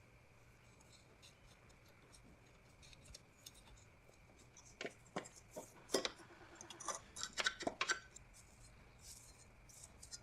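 Light scratching and scraping on the dirt bike as cobwebs and dirt are cleared off, with a quick cluster of sharp clicks and scrapes about five to eight seconds in.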